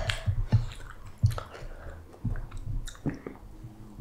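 A person chewing food close to the microphone: irregular wet smacks and squishes of the mouth.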